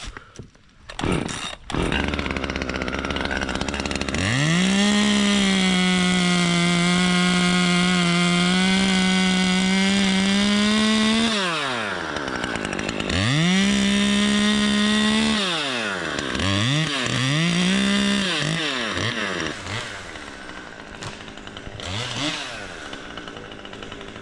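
Two-stroke chainsaw revved to full throttle for about seven seconds, its pitch sagging slightly partway through. It drops back, is revved again for a couple of seconds, then gives a few short blips before settling to a low idle near the end.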